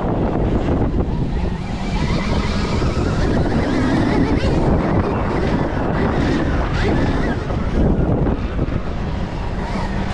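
Loud wind rushing over the microphone of a Stark Varg electric dirt bike's rider, mixed with the bike's running noise, steady throughout.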